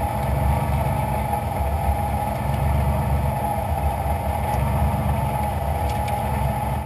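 Rally car engine idling steadily, heard from inside the cockpit.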